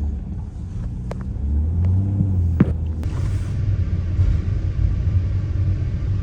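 Low rumble of a vehicle in motion, with a few sharp clicks about one and two and a half seconds in.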